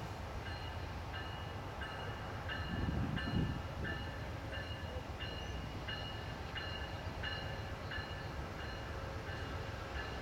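VIA Rail train led by a P42DC diesel locomotive approaching with a low, steady rumble. Over it a bell rings at an even pace of about twice a second.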